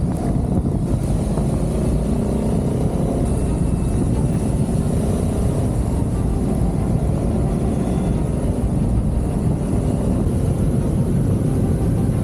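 Adventure motorcycle under way, its engine running steadily under a dense low rumble; the engine's pitch rises briefly in the first few seconds.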